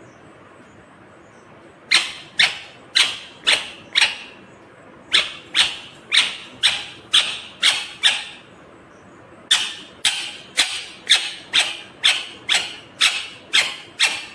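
Indian ringneck parakeet making a series of short, loud, repeated calls, about two a second. They start about two seconds in and come in three runs with brief pauses between.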